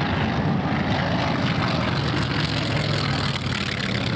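Propeller airplane's piston engine running at high power: a steady low engine drone with propeller noise, dipping slightly about three seconds in.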